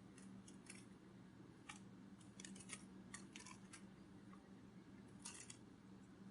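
Near silence with faint, irregular soft ticks, some in quick clusters, given as a butterfly's wing flutter, over a low steady hum.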